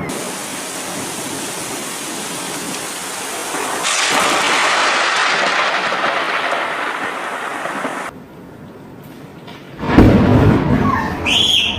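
Heavy rain hissing, growing louder about four seconds in. Near the end, after a quieter stretch, a sudden loud crack of thunder from a close lightning strike, followed a second later by a brief high-pitched tone.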